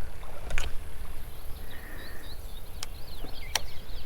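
Small birds chirping in quick twittering phrases from about a second and a half in, over a steady low rumble, with three sharp clicks scattered through.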